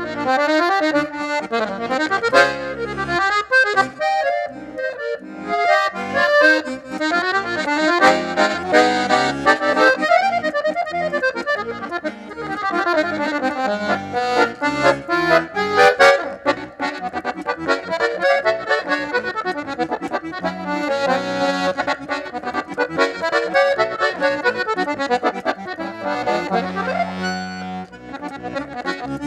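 Accordion (gaita, in the southern Brazilian style) playing a lively tune, with quick runs of notes over bass chords.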